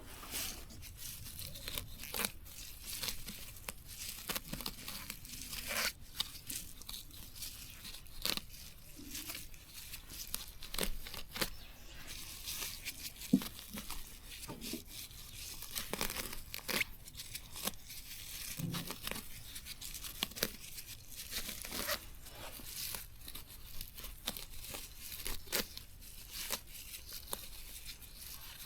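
Plant stems and grass being torn and snapped by hand: a run of irregular sharp rips and snaps, some louder than others.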